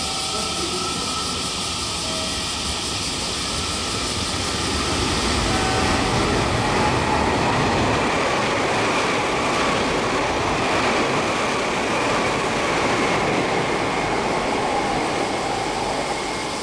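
Meitetsu 2000 series μSKY electric express train passing through the station at speed without stopping. Its rushing noise builds over a few seconds, peaks as the cars sweep past, and dies away near the end.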